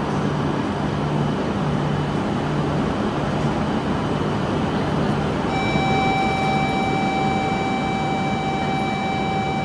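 Steady running noise of a coupled E6 and H5 series Shinkansen standing at the platform, with a low tone pulsing on and off. About halfway in, a steady high electronic tone starts and sounds for about five seconds.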